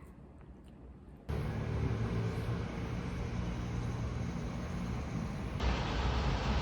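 About a second in, a steady vehicle running noise starts suddenly: a low rumbling hum under a hiss. Near the end it changes abruptly to a brighter, louder hiss.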